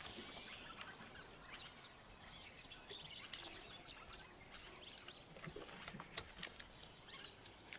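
Faint outdoor bush ambience with scattered short bird chirps over a low hiss.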